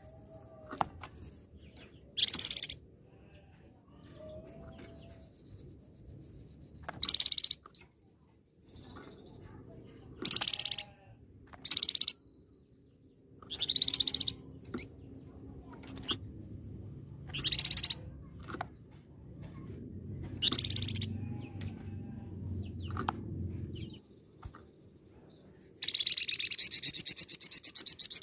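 A songbird known to Indonesian bird-keepers as the flamboyan, giving short, loud, high calls every two or three seconds, then a longer rapid trill near the end.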